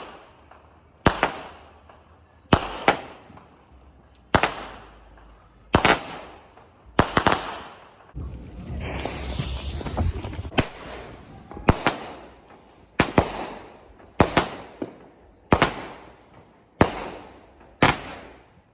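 Consumer aerial fireworks going off in a steady series of sharp bangs about every second and a half, each trailing off in a rumbling echo. About eight seconds in there are a couple of seconds of loud hissing crackle.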